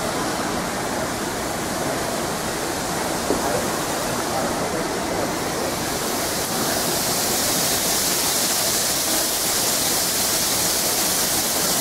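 Steady rushing noise of an LIRR electric commuter train running on the rails, with a hiss that grows brighter about halfway through.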